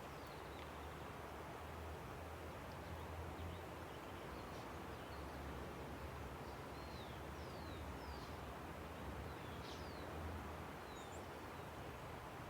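Steady rush of a river, with faint, short bird chirps that slide downward, scattered through and coming several in a row in the second half.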